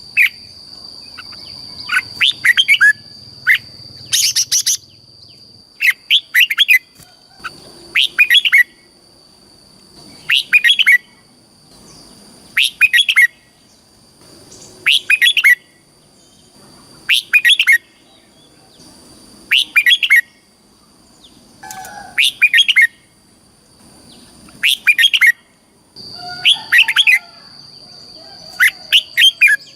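Red-whiskered bulbul singing: short, loud phrases of quick warbled notes, one about every two seconds. A steady high thin tone runs underneath for much of it, dropping out in the middle and returning near the end.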